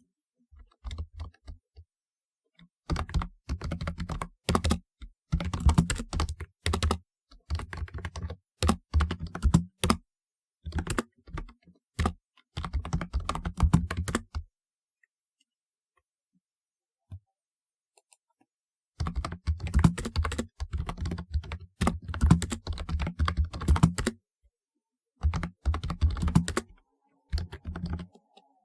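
Typing on a typewriter-style computer keyboard: rapid runs of key clicks with short breaks. The typing stops for about four seconds near the middle, then resumes.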